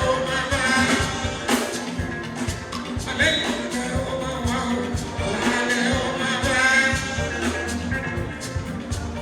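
Live Fuji music: singing over a busy beat of drums and percussion.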